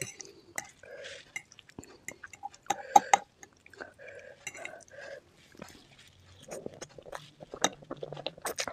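Close-miked chewing and wet mouth sounds of a person eating spicy chicken feet curry with Maggi noodles, with many sharp clicks and smacks.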